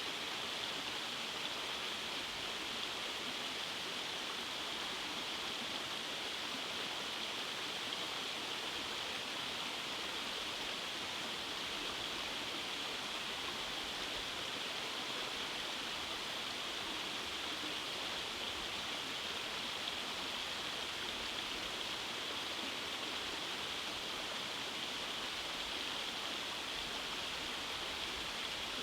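Rainforest stream running over rock cascades: a steady, even rush of water with no breaks.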